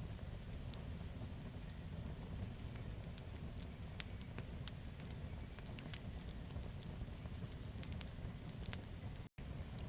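Campfire burning: a steady low rumble of flames with scattered sharp crackles and pops from the burning wood. The sound cuts out completely for an instant near the end.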